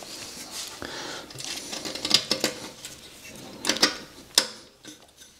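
Metal parts of a motorcycle exhaust heat shield being handled and fitted, with several sharp metallic clicks and clinks over rustling handling noise.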